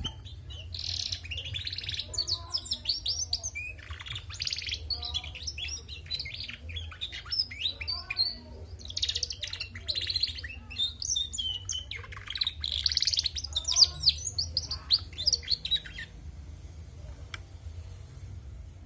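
Female domestic canary twittering in quick runs of high chirps and trills, phrase after phrase, stopping near the end. A steady low hum runs underneath.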